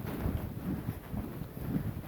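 Wind buffeting the microphone: an uneven low rumble that comes and goes in gusts.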